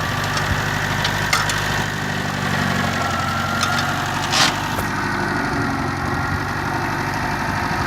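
Forklift engine idling steadily, with a few light clicks and a brief hiss about four and a half seconds in.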